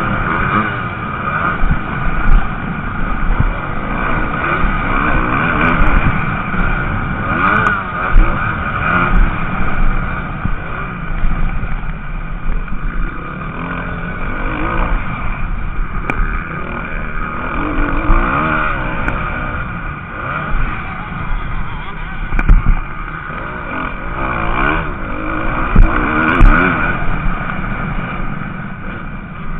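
MX2-class motocross bikes racing on the track, several engines revving up and falling back again and again as the riders accelerate and shut off.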